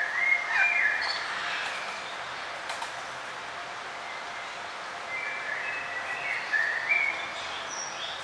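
Small songbirds chirping in short, quick phrases over a steady outdoor hiss. One cluster of chirps comes right at the start, and another about five to seven seconds in.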